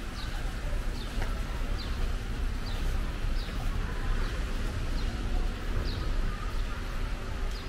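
A small bird calling over and over: short high notes that slide down in pitch, about one every three-quarters of a second, over a steady low rumble.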